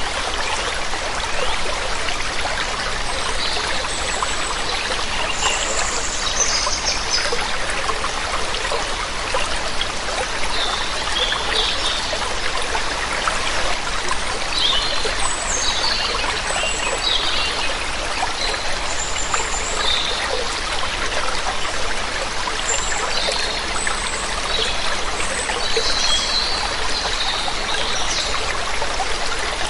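Steady rush of running water, with birds chirping briefly now and then over it.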